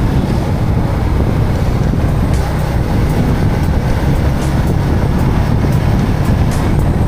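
Wind buffeting the microphone over a steady low rumble of a motorcycle riding along the road.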